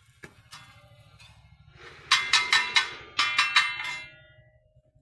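Metal spatula striking an iron wok in quick clanging runs, about seven ringing strikes in two bursts around the middle, as at a chowmein stall.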